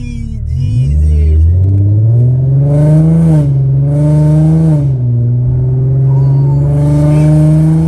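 A VR30 twin-turbo V6, swapped into an Infiniti G37, heard from inside the cabin as the car pulls away from a stop. The revs climb, drop back at a shift, climb and drop again, then hold steady and start rising near the end, with a hiss over the engine note during the harder pulls.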